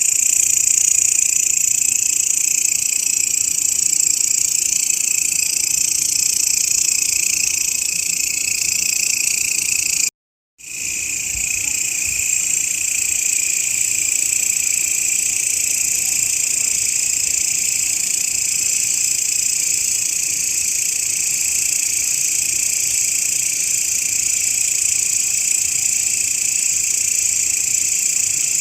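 Grasshopper stridulation: a continuous, high-pitched buzz that keeps steady. It cuts out completely for about half a second a little over a third of the way through, then resumes.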